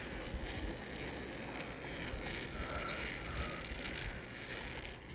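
A bicycle rolling along, with its tyres and wind on the microphone making a steady rumble.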